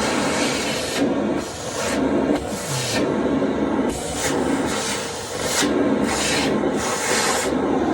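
Vacuum cleaner running, its hiss swelling and dropping again and again as the nozzle is held against a hand and pulled away.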